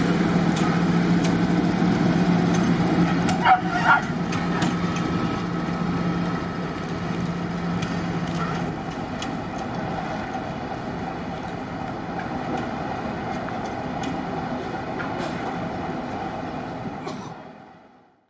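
Diesel locomotive running with a steady hum that slowly grows quieter, as if drawing away, with a few sharp clicks about three and a half to four seconds in. The sound fades out just before the end.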